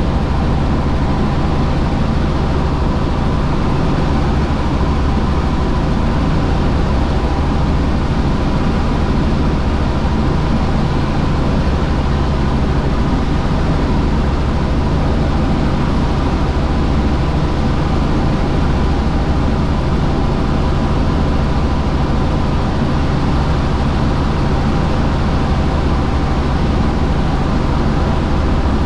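Helicopter in flight: steady engine and rotor noise, loud and unchanging.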